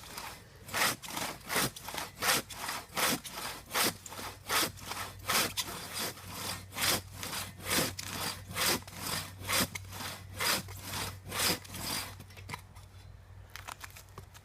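Vintage hand saw cutting through a log, in steady back-and-forth strokes of about two a second that stop about 12 seconds in.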